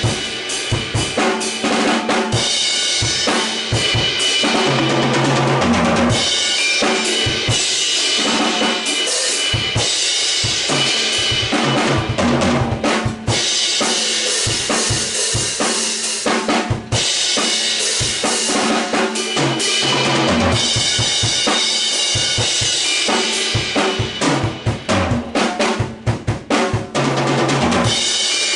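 Acoustic drum kit played freely for a tone check in a live drum room: bass drum, snare and cymbals throughout, with low tom fills about five seconds in and again near the end.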